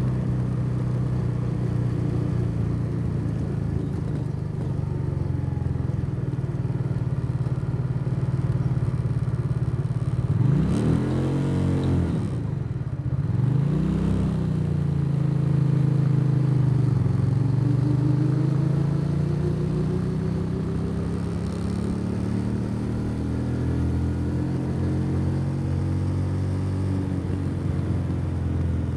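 Motorbike engine running under way, heard from the rider's seat. About ten seconds in the revs drop sharply and then pick up again, and later the engine note climbs slowly.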